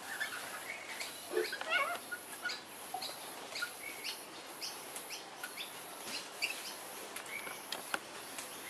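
Parrots at a seed feeder giving many short chirps and squeaks, several a second, with a few sharp clicks among them.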